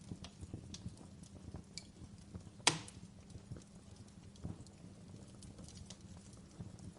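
Fire crackling with irregular small snaps, and one sharp, louder pop a little before the middle. A faint steady hum runs underneath.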